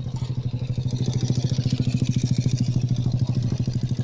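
Combine harvester's diesel engine running steadily with a rapid, even pulse, growing a little louder about a second in.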